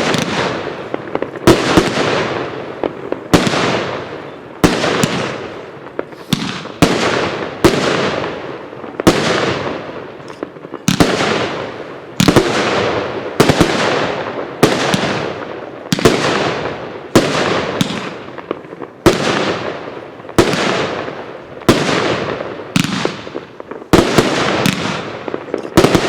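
A 'Solid Stone' consumer firework cake firing its tubes one after another, about one shot every second and a half to two seconds. Each shot is a sharp bang that trails off over about a second.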